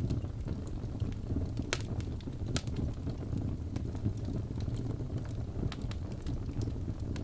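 Wood fire burning in a fireplace: a steady low rumble of the flames with scattered sharp crackles and pops, two louder pops near the start.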